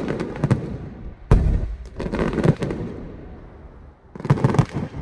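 Aerial fireworks bursting: a heavy boom about a second in, then rapid crackling pops, and another cluster of bangs near the end, each followed by a rumbling echo.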